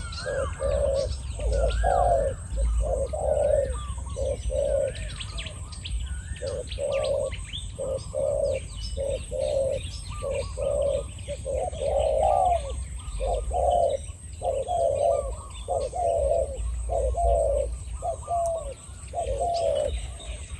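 Spotted doves cooing: a long run of deep, repeated coo phrases, answering one another, from a wild dove and a caged decoy dove, with small birds chirping behind.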